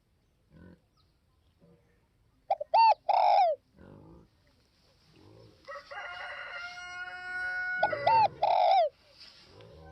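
Spotted dove cooing: two phrases, about two and a half seconds in and again near the end, each a short note followed by a longer arched coo. Between them a steady drawn-out call lasts about two seconds.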